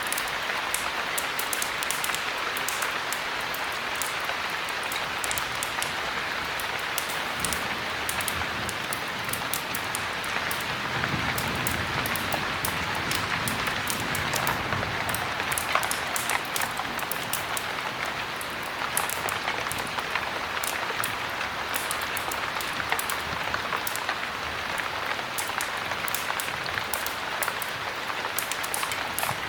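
Heavy rain falling steadily, an even hiss with a constant scatter of small sharp ticks.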